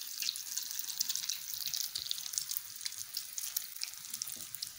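Hot oil sizzling and crackling steadily as egg-coated minced-meat kebab balls deep-fry in a pan.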